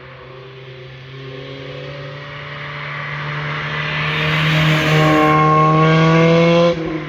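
A car's engine and exhaust under hard acceleration, growing steadily louder as it approaches, its pitch rising over the last couple of seconds. The sound cuts off suddenly near the end.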